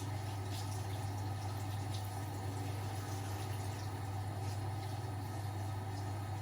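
Domestic washing machines and tumble dryers running: a steady low hum with faint, scattered light ticks.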